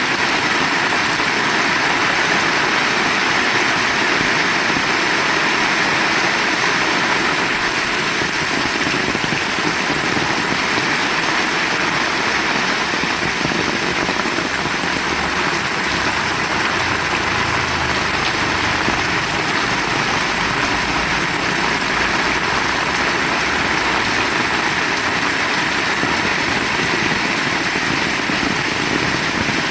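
Heavy rain falling in a steady, even hiss, with a faint low rumble rising and fading in the middle.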